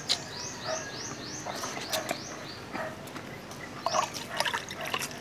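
A small bird chirping a quick run of short, rising notes, about four a second, with a few more near the end. Over it come sharp wet clicks of people chewing and tearing grilled pork ribs by hand, the loudest about four seconds in.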